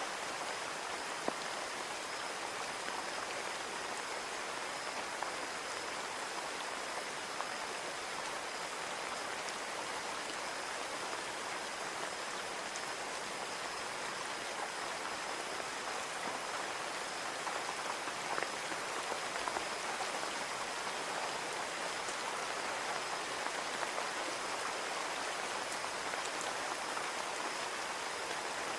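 Steady rain falling on a window, an even hiss with scattered individual drop taps.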